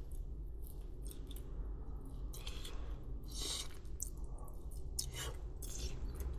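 Takoyaki packaging being handled and opened: a series of short crinkles and clicks, with longer rustles about three and a half seconds in and again near the end, over a steady low hum.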